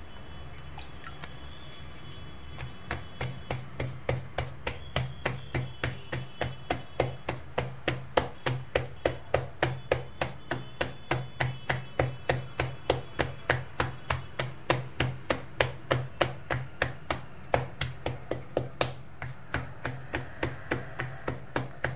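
Hands patting jowar (sorghum) bhakri dough flat on a flour-dusted counter: a steady rhythm of soft slaps, about three a second, starting a couple of seconds in and pausing briefly once near the end.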